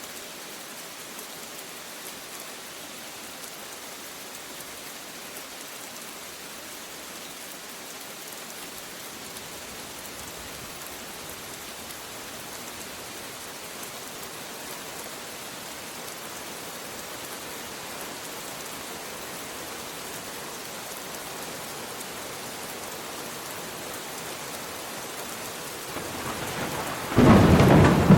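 Steady rain falling, an even hiss that grows slightly louder, then thunder near the end: a rumble building and a sudden loud clap that rolls on.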